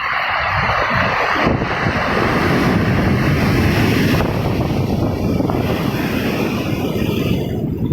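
Sea waves breaking and washing up the shore: a rushing surge that swells and then eases off near the end. Wind buffets the microphone throughout.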